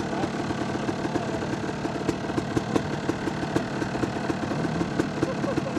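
Dirt bike engine idling with a steady, even pulsing beat.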